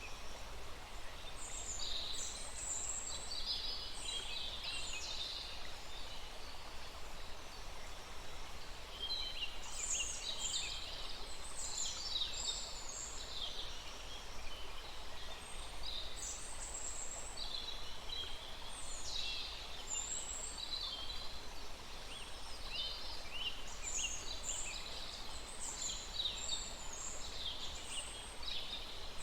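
Several forest birds chirping and singing in quick, overlapping high-pitched bursts, over a steady faint rush from a small stream.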